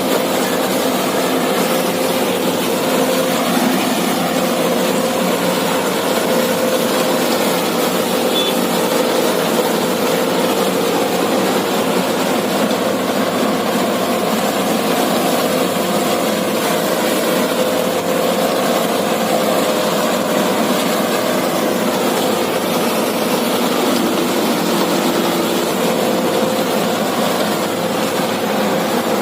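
Diesel engine of farm machinery running steadily at a constant speed, with no break or change in pitch.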